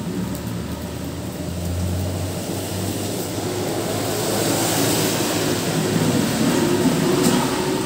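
Heavy rain falling on a road and foliage, with a low rumble that swells and peaks about five to seven seconds in before easing off.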